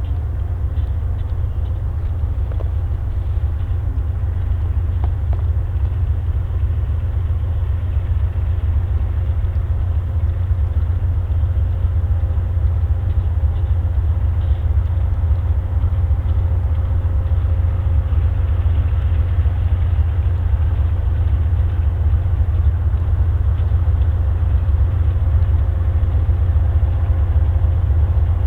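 Freight train's diesel locomotives giving a steady low rumble, growing slightly louder.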